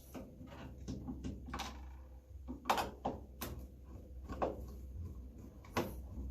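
A handful of sharp knocks and clatters from handling the microwave's housing and blower parts, over a low steady hum.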